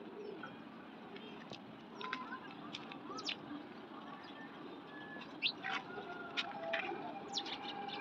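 Scattered short, high bird chirps and clicks over faint outdoor background noise, with a faint held tone in the second half.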